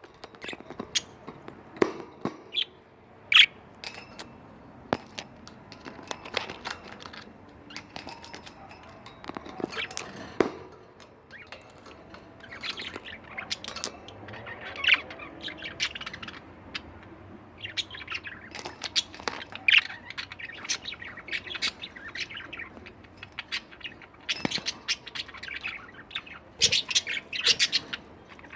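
Pet budgerigars chirping and chattering: a busy, irregular run of short high chirps, with sharp little clicks among them.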